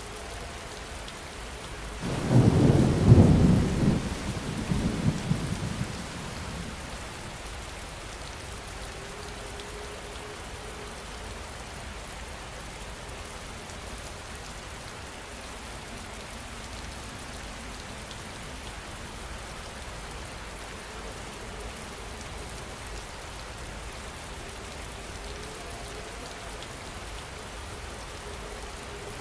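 Steady heavy rain, with a loud thunderclap about two seconds in that rumbles away over the next few seconds.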